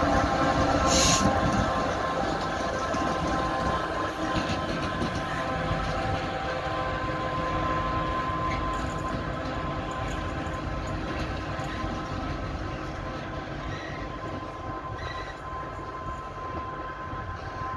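A train running, with several steady whining tones over a rumble, slowly growing quieter.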